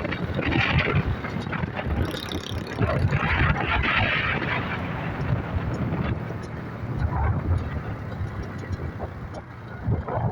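A Yamaha YBR motorcycle on the move: wind buffeting the microphone over the steady rumble of the single-cylinder engine and road noise. Two louder gusts of wind hiss come through, near the first second and again about three to four seconds in.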